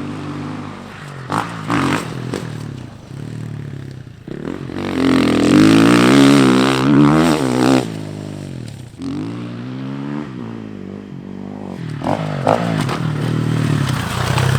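Dirt bike engine revving up and down as the bike is ridden around the track, its pitch rising and falling again and again and loudest about five to eight seconds in as it passes close. A few short knocks sound near the start and again near the end.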